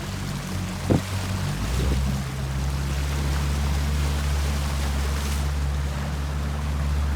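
A motorboat's engine running steadily with water washing along the hull; about two seconds in its note changes and grows stronger, and there is a short knock about a second in.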